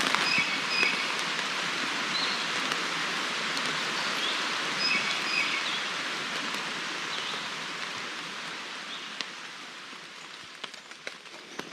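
Steady rain falling on a hammock tarp and the surrounding forest, growing gradually quieter. A few faint, short high chirps sound in the first half.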